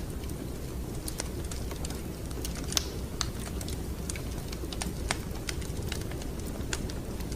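Wood fire crackling in a fireplace: irregular sharp pops and snaps, one louder pop a little under three seconds in, over a steady low rumble.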